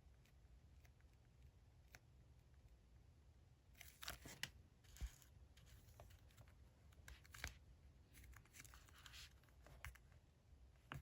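Paper and stationery handled by hand during diary decorating: several short, scratchy bursts of cutting or tearing, clustered from about four to ten seconds in, over a quiet room.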